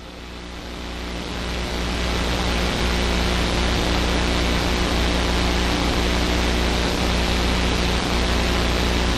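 Police helicopter cabin noise: a steady drone of engine and rotor with a deep hum, fading in over the first couple of seconds.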